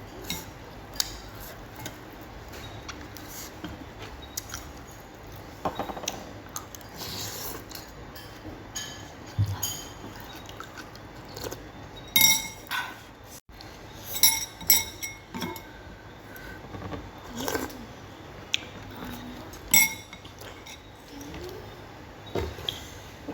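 Utensils clinking and tapping against a bowl during a meal of noodle soup. Irregular sharp clinks, some ringing briefly, come thickest around the middle.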